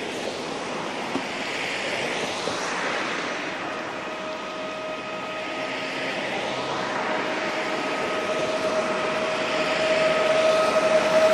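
PESA Elf EN76 electric multiple unit approaching and growing steadily louder. A steady whine comes in about four seconds in and strengthens as the train nears.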